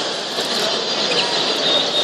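Many caged canaries chirping and calling together in a dense, steady chatter of short high chirps, with some wing fluttering.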